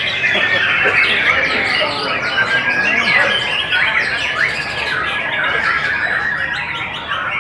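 Many songbirds singing at once, a dense, continuous tangle of overlapping chirps, trills and whistles, with a long held whistle in the middle.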